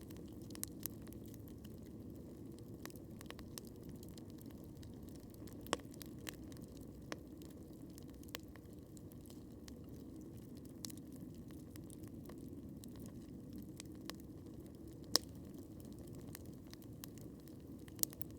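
Wood campfire burning with a steady low hiss and scattered sharp crackles and pops, the loudest about six seconds in, about fifteen seconds in and again near the end.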